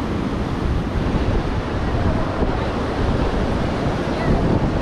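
Ocean surf washing on a beach, with wind buffeting the microphone in a heavy low rumble.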